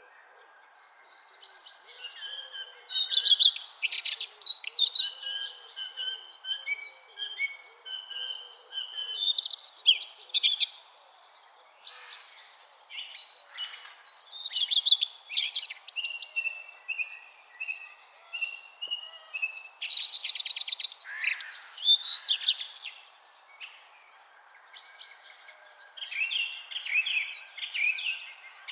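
Several songbirds singing and calling in overlapping, varied phrases of trills, chirps and whistles, coming in clusters every few seconds over a faint steady hiss.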